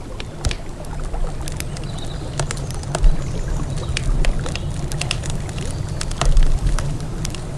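Campfire crackling, with frequent sharp pops and snaps of burning wood over a steady low rumble of river water. A few louder low thuds come about three seconds in and again near the end.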